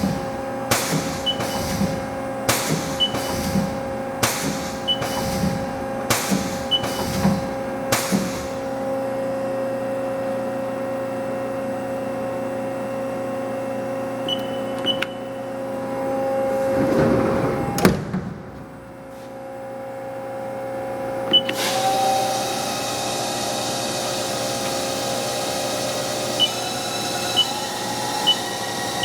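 2001 Haas SL20T CNC lathe: the tool turret indexing station by station, with a clunk about once a second over the first eight seconds, short beeps from the control, and a steady machine hum underneath. About 21 seconds in, the spindle starts and runs up with a climbing whine.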